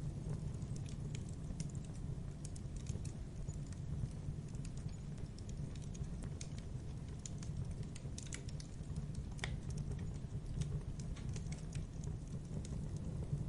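Wood fire crackling in a fireplace, with many small irregular pops and snaps over a steady low rumble of burning.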